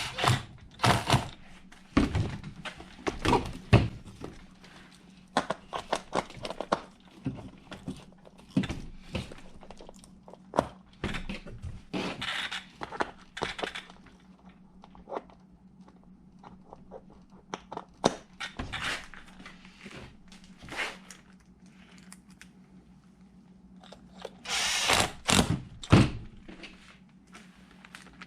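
Hand tools and plastic RC truck parts clicking and knocking while the wheels and tires are fitted onto the truck's hex adapters. The sounds are irregular, with a couple of longer, noisier stretches near the middle and near the end, over a faint steady hum.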